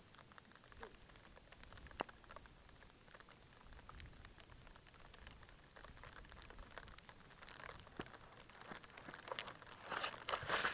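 Raindrops pattering, faint and sparse at first, in scattered sharp ticks that grow denser and louder near the end.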